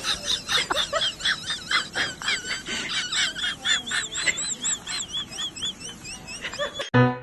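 Birds chirping: rapid, high-pitched, repeated chirps, several a second, that stop abruptly just before the end.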